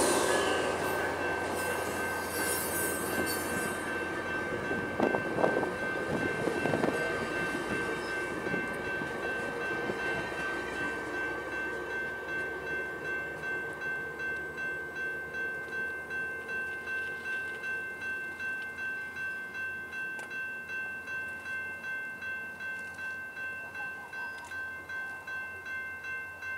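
New Mexico Rail Runner commuter train rolling through a street grade crossing and fading away as it leaves, with a few clanks about five to seven seconds in. A railroad crossing warning bell rings steadily at about two strikes a second and stands out more and more as the train noise dies away.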